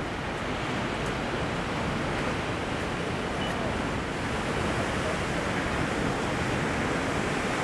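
Steady wash of ocean surf, mixed with wind noise on the microphone.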